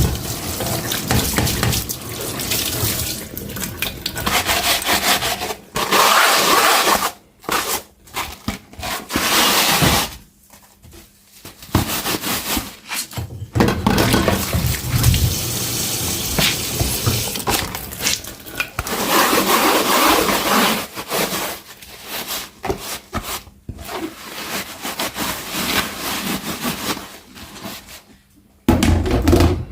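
Kitchen tap water running into a sink as dishes are rinsed by hand, the rushing flow broken by several short pauses.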